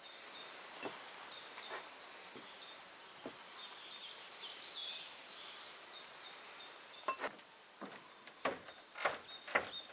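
Small birds chirping and singing in woodland, with a few sharp knocks and clatters in the last few seconds as things are handled.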